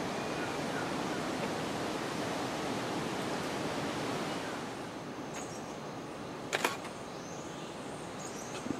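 Steady rushing outdoor noise that eases a little about halfway through, with a sharp double click a little after the middle and another click near the end.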